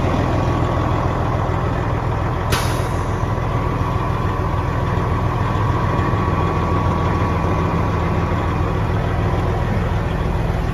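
Heavy diesel semi-truck engine idling steadily, with one short, sharp burst of noise about two and a half seconds in.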